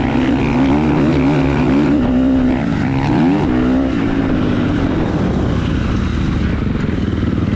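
Motorcycle engine running, its pitch rising and falling with the throttle for the first four seconds or so, then settling to a steadier note.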